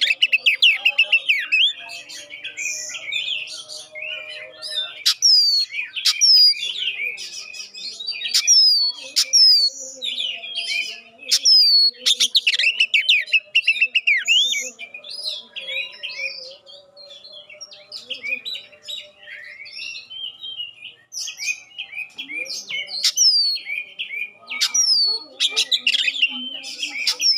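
Oriental magpie-robin (kacer) singing loudly: rapid, varied warbling broken by sharp whistles that slide down in pitch and come again every second or two.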